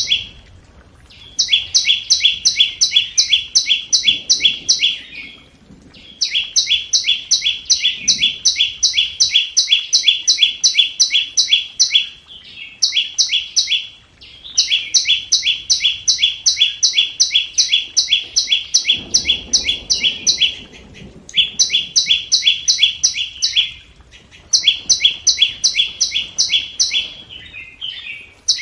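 Flowerpecker calling: fast runs of sharp, high ticking notes, about five or six a second, in bouts of several seconds with short pauses between them. This is a recorded lure call of the kind used to draw wild birds to a trap.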